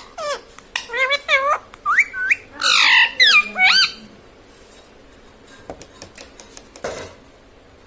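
Indian ringneck parrot calling in a quick run of loud squawks, the calls swooping sharply up and down in pitch. After about four seconds it goes quieter, leaving a few soft clicks and one short call near the end.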